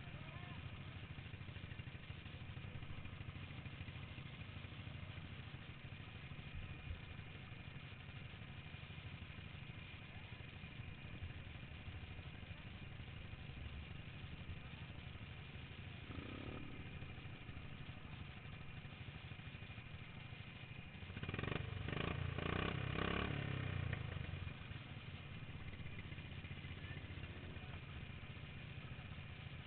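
Modified racing lawn mower engine running steadily. It gets louder for about three seconds, starting about two-thirds of the way through.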